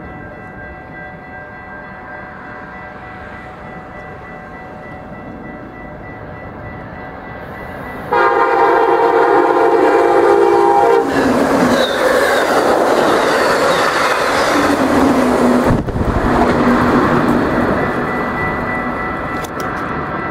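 Amtrak Siemens Charger diesel locomotive approaching, with a steady ringing of crossing bells at first. About eight seconds in it sounds one long horn blast of roughly three seconds, then it passes close by with a loud rush of engine and wheel noise that slowly fades.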